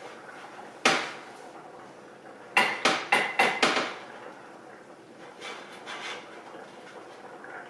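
Hard kitchen knocks and clinks as a baking dish is handled and greased on the counter: one sharp knock about a second in, a quick run of about five knocks a couple of seconds later, then a few faint taps.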